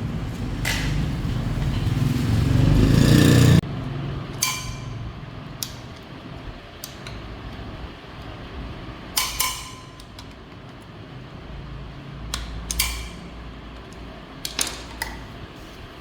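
A loud low rumble grows louder and cuts off abruptly about three and a half seconds in. Then come scattered light metallic clinks and taps, a few seconds apart, like small metal parts or tools being handled.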